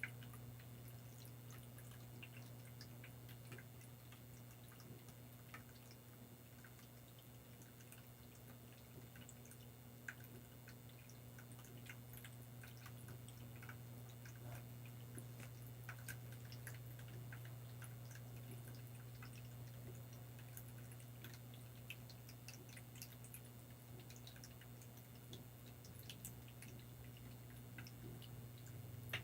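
Faint water dripping and trickling, many small scattered drops, over a steady low hum.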